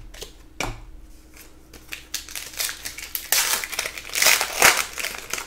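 Crinkling and crumpling of a trading-card pack wrapper being handled, with a few light clicks first and a denser crackling stretch in the second half.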